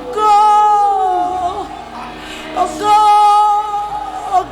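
A woman singing a gospel worship song over soft accompaniment: two long phrases of held notes, with a short break between them about halfway through.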